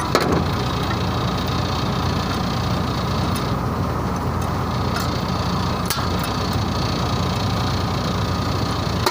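Steady drone of running machinery with a low hum, with a few faint clicks about a second in and around five and six seconds.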